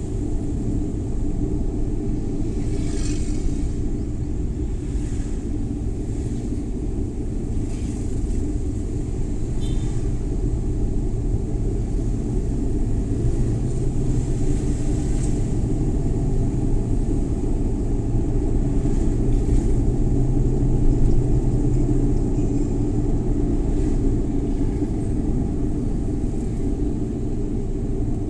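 Suzuki Every Wagon (DA64W) kei van under way: a steady low drone of its small three-cylinder engine and road rumble. The engine note swells twice, around the middle and again about two-thirds through, with a few brief faint hissing swishes from outside.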